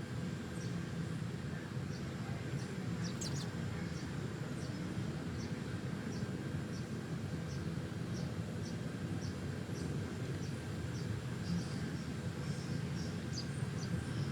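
Small birds chirping: short high chirps repeated roughly twice a second, a few in quick clusters, over a steady low hum.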